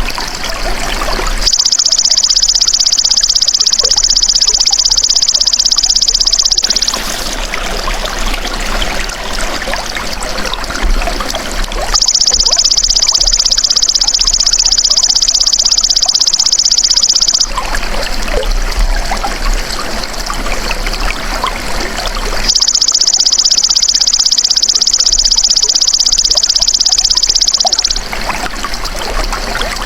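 Belalang emas insect calling in three long, steady, high buzzing trills, each about five seconds, with pauses of about five seconds between them. Underneath runs continuous trickling water.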